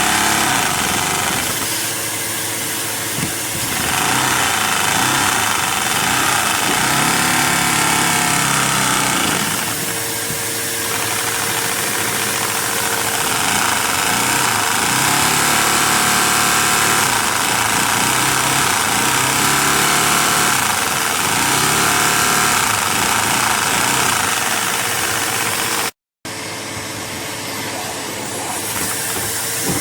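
LEGO vacuum engine running on suction, a steady whooshing mechanical whir whose pitch rises and falls as its speed changes. The sound cuts out abruptly for a moment about 26 seconds in.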